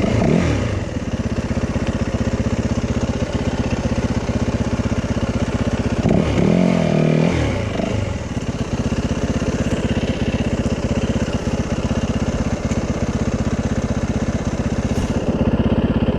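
Yamaha 450 dirt bike's single-cylinder four-stroke engine running steadily at low revs, with one brief rev up and back down about six seconds in.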